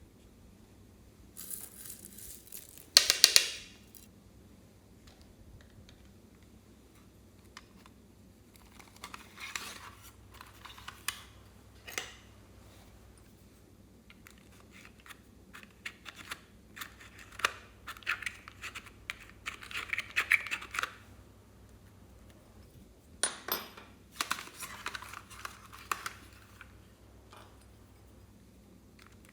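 Slime being squeezed and stretched by hand, in irregular bursts of sticky crackling and popping clicks with short quiet pauses between them. The loudest burst comes about 3 s in.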